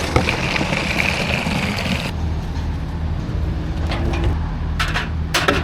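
An engine runs steadily with a low hum. For about the first two seconds a hissing water spray sounds over it, then cuts off.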